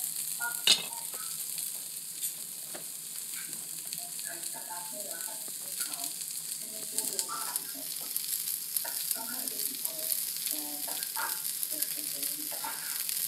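Onion wedges and jalapeño slices sizzling in an enameled cast-iron Dutch oven: a steady frying hiss with scattered small crackles, and one sharp knock about a second in.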